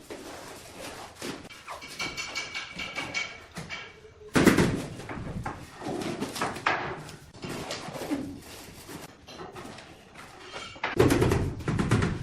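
A run of knocks and scrapes from floor-tiling work, with a louder, denser burst of clattering about four seconds in and another near the end.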